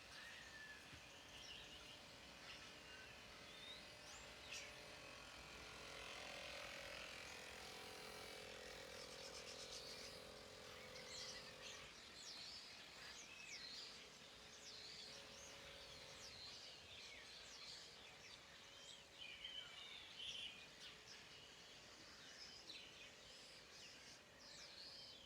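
Faint outdoor ambience: birds chirping over and over, with a faint steady hum that comes in for several seconds near the middle.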